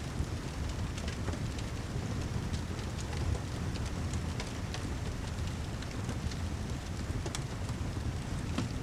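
Steady heavy rain mixed with a crackling fireplace: a constant low rumbling wash of rain with scattered sharp crackles and pops throughout.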